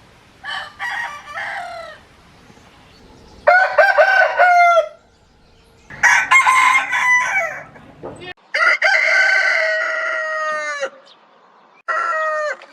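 Different roosters crowing one after another, five crows in all, each a drawn-out cock-a-doodle-doo lasting one to two seconds. The background changes abruptly between some crows, as between separate recordings, and the last crow is cut off.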